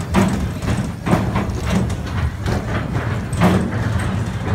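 Mine-train roller coaster cars rolling over the track with an uneven clatter of knocks and clacks over a low rumble.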